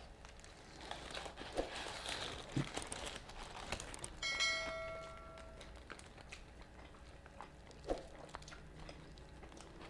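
Biting into and chewing a Nashville hot fried chicken sandwich, close to the microphone: faint crunching of the breaded crust and wet chewing sounds. About four seconds in, a short chime with several pitches rings for about a second and a half, from a subscribe-button animation.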